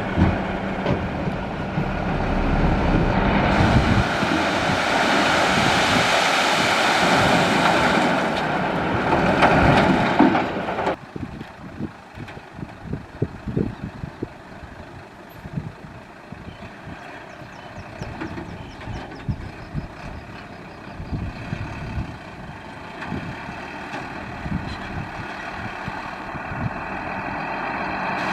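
Heavy dump truck and its engine working, with a loud rushing noise that drops off abruptly about eleven seconds in. A quieter running sound with scattered knocks follows.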